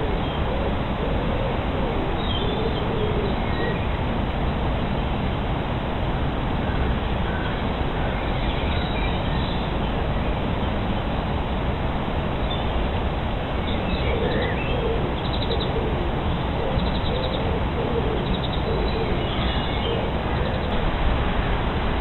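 Wild birds chirping and singing faintly over a steady background noise. The chirps and short trills come scattered, most often in the second half.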